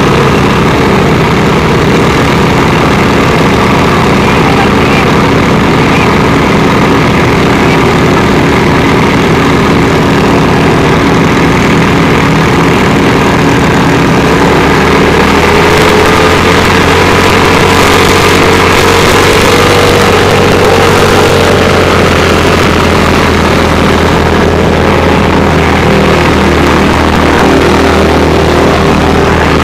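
Fire-brigade pump engines running loud and steady under test, several engine notes layered together, one pitch creeping up a little about halfway through.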